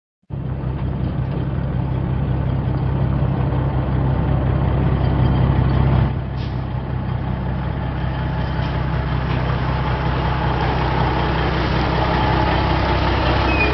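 Heavy tanker truck's engine running steadily, starting abruptly; the engine note shifts about six seconds in.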